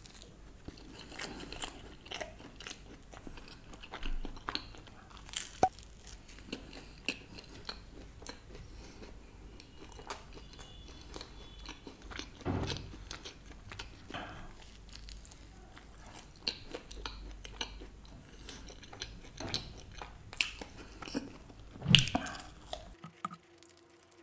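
A person chewing and biting a cheese-burst double cheese margherita pizza slice close to the microphone. Wet chewing goes on throughout, with irregular clicks, smacks and crunches, and a few louder ones now and then.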